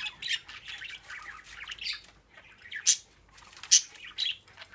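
Pet budgerigars chattering and warbling, with two sharp, loud squawks in the second half.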